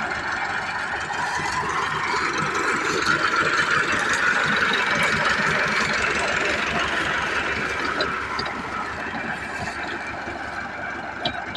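Massey Ferguson 385 tractor's diesel engine running, growing louder through the middle of the stretch and then easing back down, with a few sharp clicks near the end.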